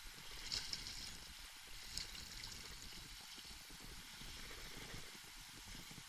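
Water lapping and sloshing around a kayak, with two short splashes about half a second and two seconds in.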